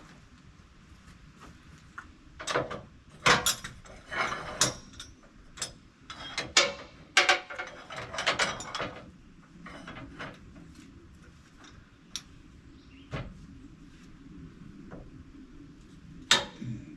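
Irregular metal clanks, clicks and knocks of log-winch and chain rigging being handled, coming thick for several seconds and then only a few single knocks.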